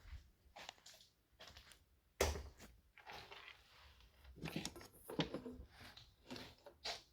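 Scattered clicks, knocks and scraping of tools and metal parts being handled while a microwave oven is taken apart, with one sharper knock about two seconds in and a run of irregular clatter after the middle.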